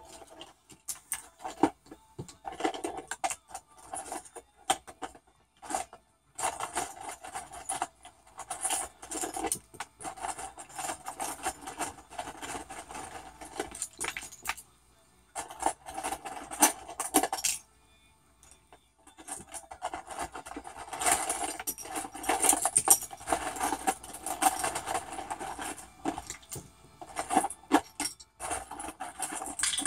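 A cockatoo busily handling small hard objects: a stream of clinking, jangling rattles in spells, with brief pauses about halfway through.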